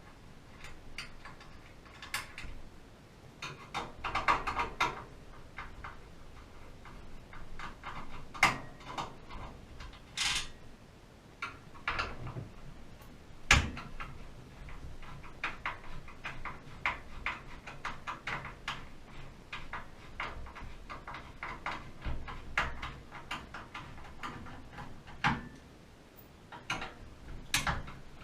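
Irregular clicks, taps and knocks of hand work on metal parts, with a denser clatter about four seconds in and one louder knock about halfway through.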